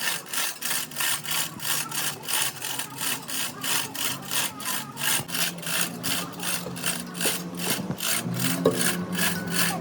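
A hand tool scraped back and forth on metal in rapid, even strokes, about three to four a second, over a low steady hum.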